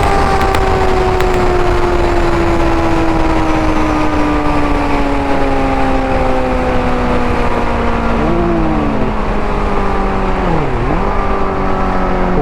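Kawasaki ZX-6R's 636 cc inline-four through an IX Race end can with link pipe and decat, running loud. Its note falls slowly and steadily as the revs drop, with a quick dip and recovery near the end.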